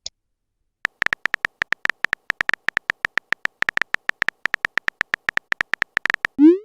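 Chat-app typing sound effect: rapid even key clicks, about eight a second, for about five seconds, then a short rising swoop near the end as a message is sent.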